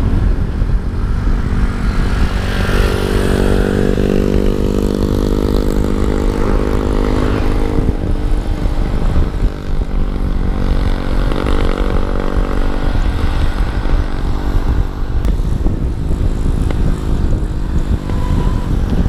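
Heavy wind rumble on the microphone during a fast bicycle descent. A motor vehicle engine runs alongside from about three seconds in to about eight seconds, and again briefly a few seconds later.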